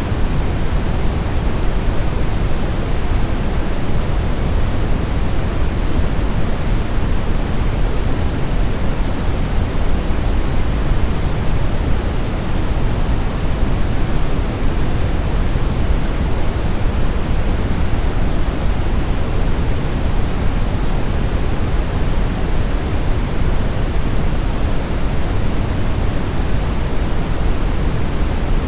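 Steady brown noise: an even, deep hiss weighted toward the low end, with no change in level or character.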